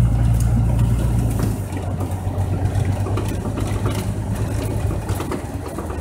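1985 Ford F-150's 300 cubic-inch inline-six engine running steadily at low revs. Its deepest rumble drops away about a second and a half in.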